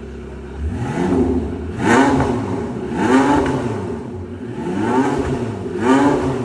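Car engine idling, then revved repeatedly: about five quick rev blips, each rising and falling in pitch, roughly a second apart.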